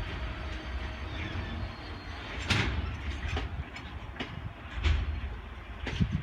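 Freight train wagons rolling slowly past with a low rumble, their wheels knocking over rail joints several times about a second apart.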